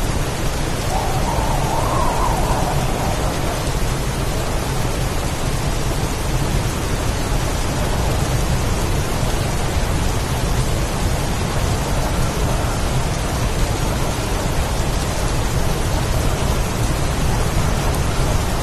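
Heavy storm rain: a dense, steady hiss with a low rumble underneath, and a slight swell a second or two in.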